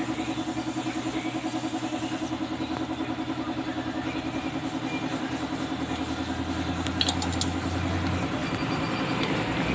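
A motor running steadily with a fast, even pulse. A few brief high clicks come about seven seconds in.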